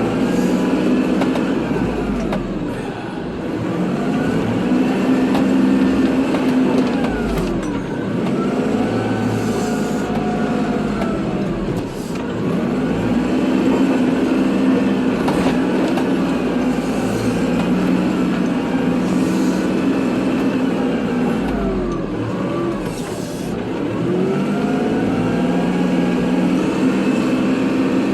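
Kubota diesel tractor engine working while plowing snow, its pitch sagging and climbing back every few seconds as the load and throttle change.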